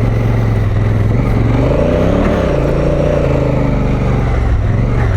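Adventure motorcycle engine pulling hard up a loose, dusty climb, its revs rising about a second and a half in and easing back down, with the rear wheel spinning for grip.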